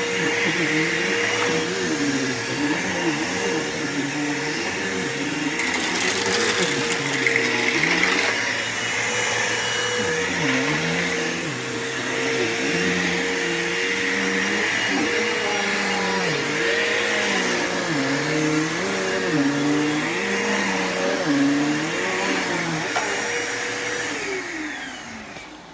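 Bissell PowerForce bagless upright vacuum (6579-2) running over carpet, its motor pitch rising and falling about every second and a half as it is pushed back and forth. Near the end it is switched off and winds down.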